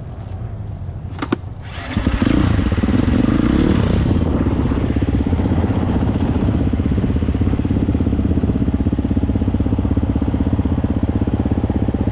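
A dirt bike engine catches suddenly about two seconds in, runs harder for a couple of seconds, then settles to a steady, even idle. A single sharp click comes just before it starts.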